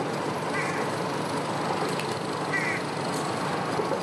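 Two short, high warbling bird calls, about half a second in and again near the middle, over a steady background rumble and hiss.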